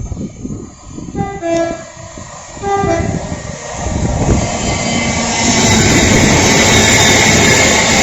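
Train horn sounding a two-tone high-low blast, then a second short blast, followed by the train passing at speed, its loud rushing rumble building from about four seconds in and holding steady.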